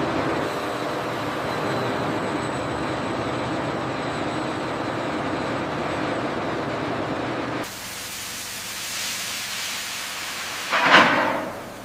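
Steady industrial hissing noise that cuts off abruptly after about eight seconds. A quieter hiss follows, with a short loud burst of hiss shortly before the end.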